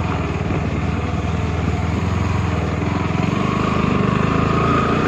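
Motorcycle engine running under way with a steady low drone. About three seconds in, a thin whine joins it and rises slightly in pitch.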